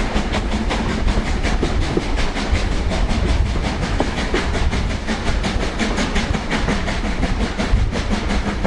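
Train hauled by LMS Black Five steam locomotive 44932 running along the line, heard from on board: a steady deep rumble with a quick, even rhythmic beat.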